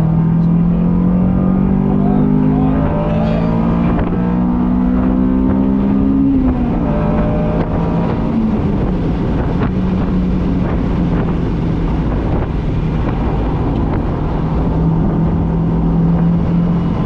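Honda S2000's inline-four engine accelerating hard through a gear, its note climbing for about six seconds. It drops sharply on an upshift, then runs at a steadier pitch.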